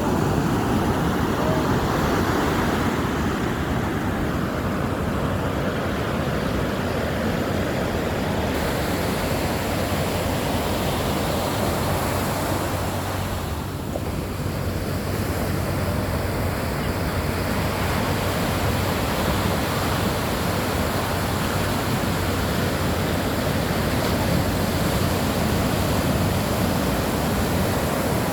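Ocean surf: waves breaking and washing in as a continuous rush of noise, dipping briefly about fourteen seconds in.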